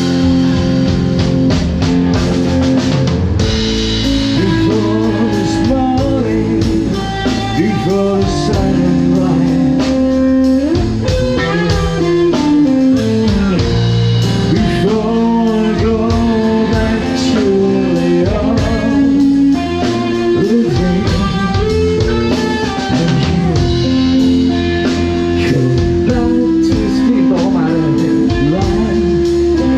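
A band playing a blues-tinged song with guitar and drums at a steady loud level.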